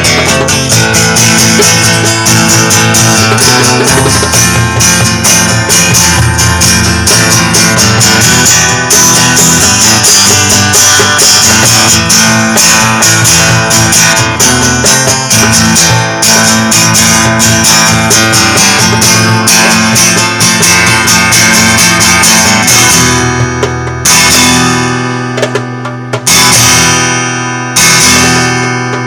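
Guitar strummed fast and steadily with no singing. Near the end it breaks off into two chords struck a few seconds apart and left to ring out.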